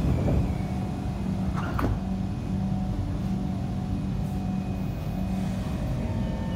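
Kawasaki C151 MRT train pulling away from the platform, heard from inside the car: a low rumble and a steady electric hum that come in abruptly, with a brief knock under two seconds in. Higher whine tones from the traction equipment join near the end as the train gathers speed.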